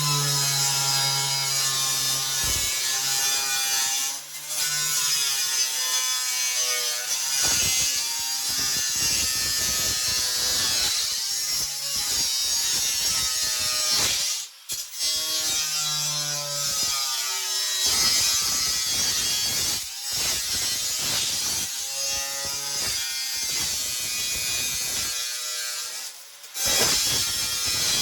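Electric power tool with a diamond-tip cutting blade cutting into metal: a loud, steady motor whine with grinding hiss, its pitch sagging and recovering as the blade bites, with three brief lulls where the cut eases off.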